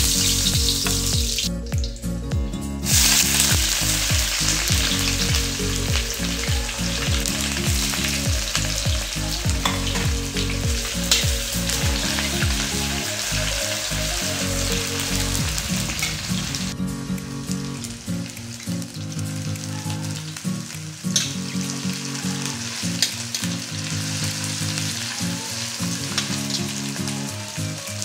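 Hot oil sizzling steadily in a cast-iron kadai as bay leaves and sliced onions fry, with a spoon stirring through them. The sizzle briefly drops out about two seconds in.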